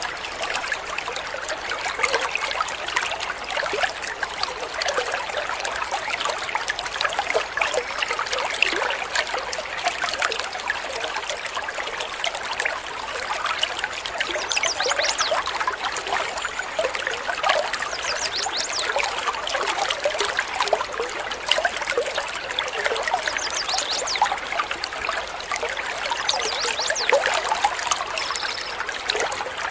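Water trickling and babbling steadily, a dense run of small splashes.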